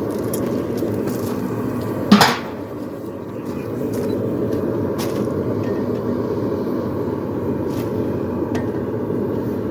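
Steady roar of a blacksmith's forge, with one loud metal clank about two seconds in, ringing briefly, and a few faint clicks.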